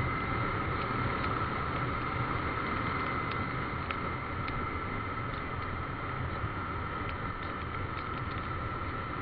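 Motorcycle on the move: steady engine and wind noise with an unchanging whine, and scattered light ticks through it.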